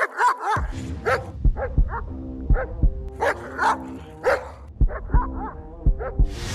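German shepherd barking repeatedly, a dozen or so barks, some in quick pairs, over background music with sustained notes and low deep hits.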